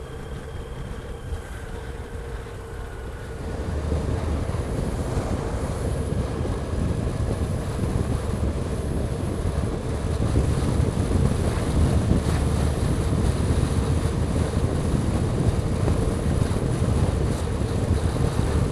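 Motorcycle running along the road with wind buffeting the rider's microphone, getting louder about three and a half seconds in.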